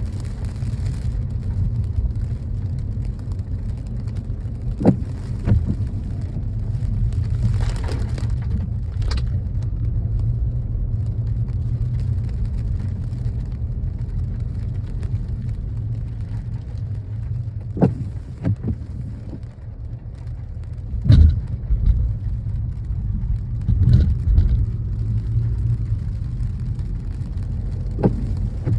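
Car driving: a steady low road rumble, with a few sharp knocks scattered through.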